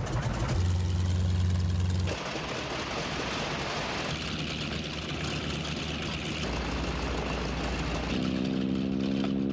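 Piston engine of a vintage radial-engined trainer aircraft running on the ground at low power, a steady low drone. Its pitch and character change abruptly a few times.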